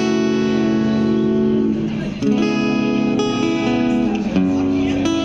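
Acoustic guitar strumming sustained chords, with a new chord about every two seconds.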